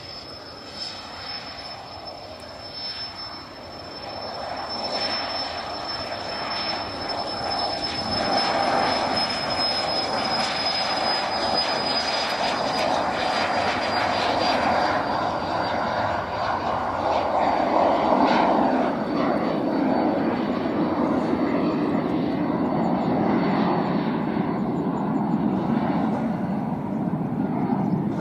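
Eclipse 500 very light jet's twin Pratt & Whitney PW610F turbofans at high power on departure. The engine noise builds over the first several seconds and then stays loud, with a thin high whine that slowly falls in pitch.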